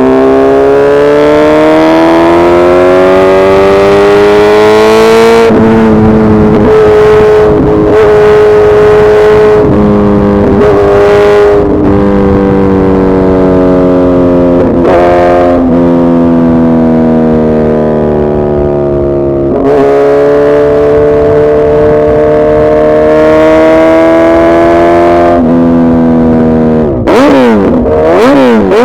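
Suzuki Hayabusa's inline-four engine running hard. Its pitch climbs and steps through several shifts, falls away for several seconds, then climbs again. Near the end come a few quick rev blips up and down.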